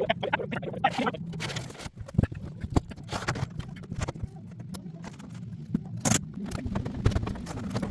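Irregular knocks, taps and clatter of roofing work, with a few sharper knocks about two seconds in, near three seconds and about six seconds in.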